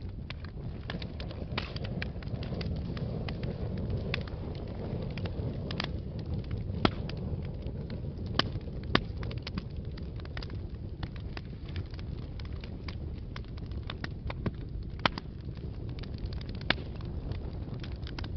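Wood fire burning in a fireplace: a steady low rumble with scattered crackles, and a few sharper pops standing out.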